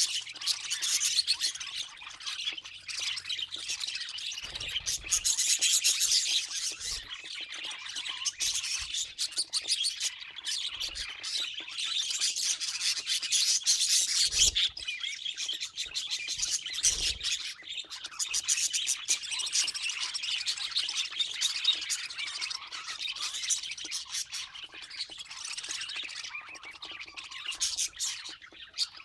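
Budgerigars chattering and warbling continuously in a dense stream of chirps and squawks, with a few dull low thuds mixed in.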